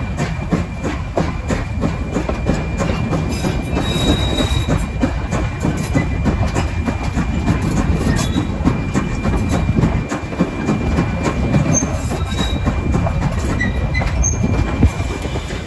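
Steam-hauled passenger carriage running slowly along the track, with a steady low rumble from the wheels and rails, frequent faint clicks, and a thin steady squeal from the wheels on the curve.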